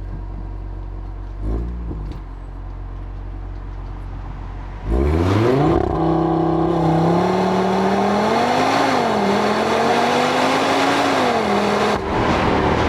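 Audi RS3's turbocharged five-cylinder engine running low with a short blip of revs, then about five seconds in it revs up sharply and pulls hard at high revs. Its pitch rises and falls as it accelerates, then drops back near the end.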